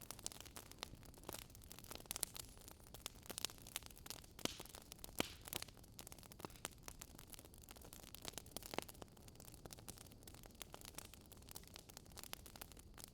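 Faint campfire crackle: burning wood popping and snapping in irregular sharp clicks over a low steady hiss.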